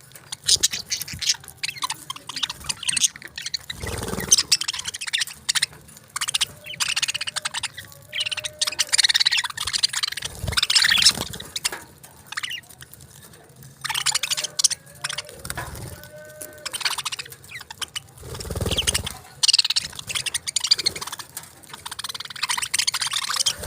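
Budgerigars chattering and warbling in rapid, overlapping flurries of high chirps, with a few soft low thumps in between.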